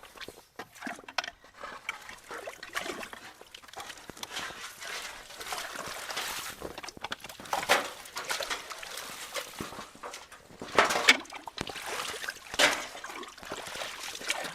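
Creek water rushing and splashing into a culvert entrance now that the blockage has been pulled clear, building and growing louder, with a few sharper splashes standing out. It is loud.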